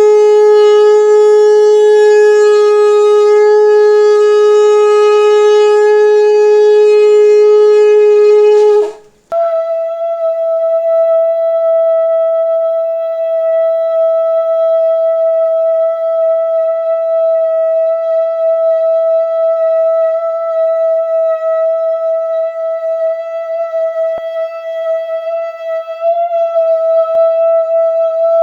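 Two long, steady shofar blasts one after the other. The first, lower and louder, stops about nine seconds in; after a brief gap a higher-pitched, softer shofar blast starts and is held for about twenty seconds, wavering slightly near the end.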